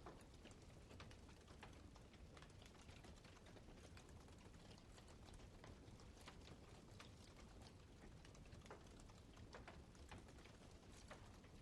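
Campfire crackling faintly: irregular small pops and snaps of burning wood over a low rumble.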